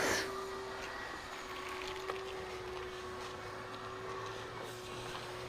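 Soft swish of a soapy wash mitt wiped lightly across car paint, strongest right at the start, over a faint steady hum.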